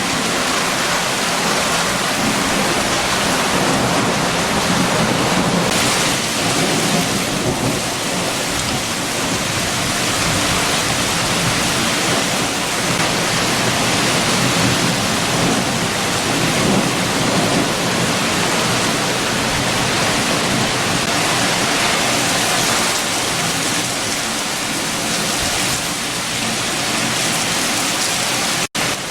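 Heavy rain with strong wind, a dense steady rush that swells and eases slowly. The sound cuts out for an instant near the end.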